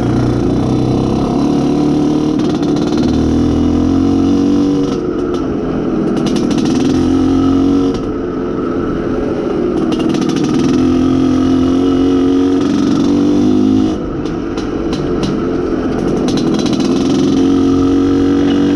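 Izh Planeta Sport's single-cylinder two-stroke engine pulling under throttle while the bike is ridden, its pitch rising in long stretches, easing off briefly about 8 and 14 seconds in, then pulling up again. The engine is being run in and is loosening up.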